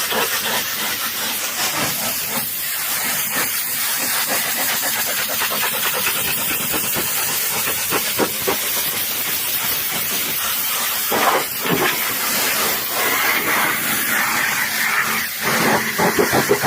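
Pressure washer spraying water against a truck: a loud, steady hiss of spray that turns brighter about thirteen seconds in.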